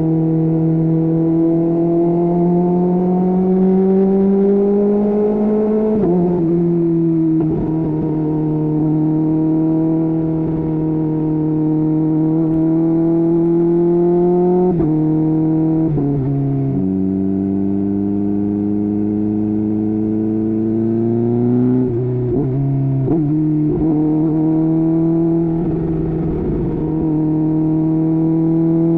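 Kawasaki Ninja H2's supercharged inline-four engine under way at highway speed, its note climbing slowly and then dropping abruptly at gear changes, about six seconds in, near fifteen seconds, and a few more times in the second half.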